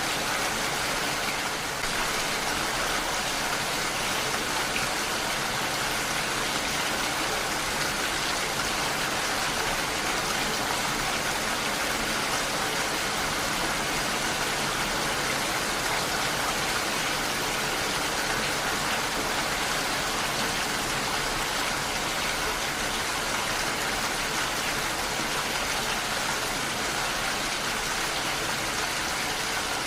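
Heavy rain falling steadily in a continuous, even hiss.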